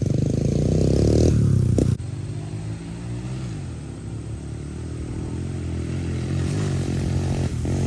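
Pit bike engine revving hard under throttle, its pitch rising; about two seconds in the sound drops abruptly, and the engine runs on at a lower note that rises and falls and builds again near the end.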